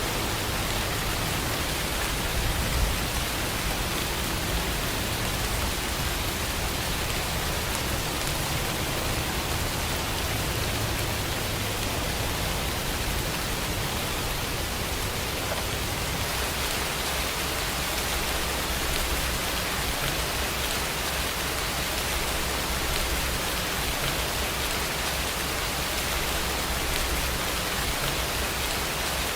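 Steady rain falling, an even, dense hiss with a soft low rumble underneath.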